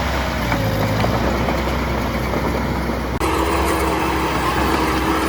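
Diesel engine of heavy construction machinery running steadily. About three seconds in, the sound changes abruptly to a different steady engine tone.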